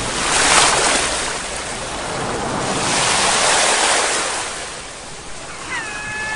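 Sea waves breaking and washing in, with two swells of surf about three seconds apart. A short high call sounds near the end.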